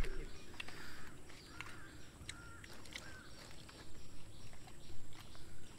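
Quiet garden ambience with a few faint, short bird chirps and scattered small clicks.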